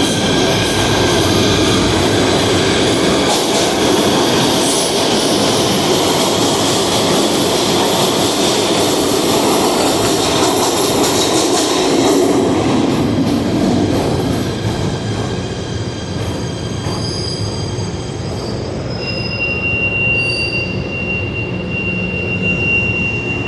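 PATH rapid-transit train running through the station, its wheels squealing against the rails. The noise eases a little about fourteen seconds in, and a steady high whine sets in near the end.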